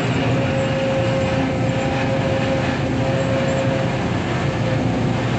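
Long-arm excavator's diesel engine running steadily under work, a low hum with a steady higher tone over it, as the machine starts leveling the levee road.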